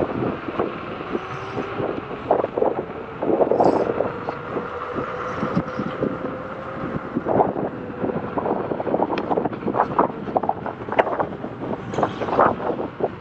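Wind buffeting the microphone of a moving electric unicycle ride on a rough trail, with frequent short knocks and rattles from bumps along the way.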